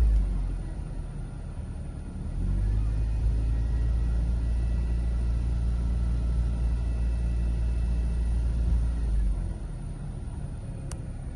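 Mercedes-Benz CLC200 Kompressor's supercharged four-cylinder engine running, with a steady low rumble that drops away about nine seconds in. A single sharp click comes near the end.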